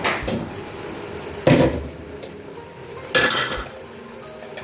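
A utensil stirring and knocking in a cooking pot: three short scraping clatters about a second and a half apart, the middle one loudest.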